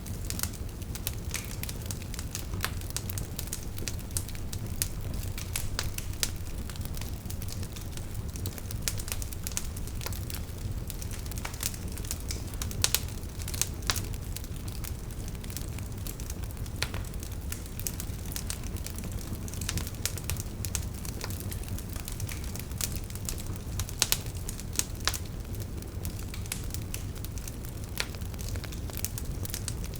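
Wood fire burning with a steady low rumble and irregular sharp crackles and pops from the logs, a few louder snaps scattered through.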